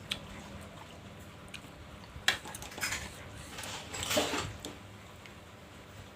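Cutlery clinking against a bowl during a meatball meal: a few sharp clicks, the loudest a little over two seconds in, then a longer, noisier stretch of eating sounds about four seconds in.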